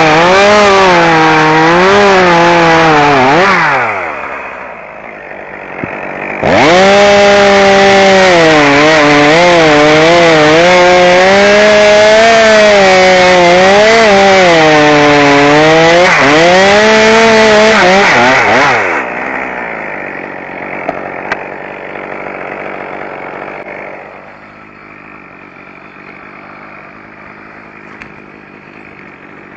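Chainsaw engine running at full throttle, its pitch sagging and recovering as it cuts through wood. It falls back briefly about four seconds in and revs up again. Near the two-thirds mark it drops to a quiet idle.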